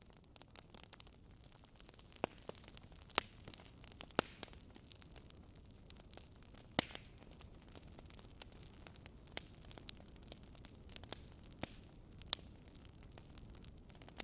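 Wood fire crackling in a fireplace: irregular sharp pops and snaps over a soft hiss, with a handful of louder pops scattered through.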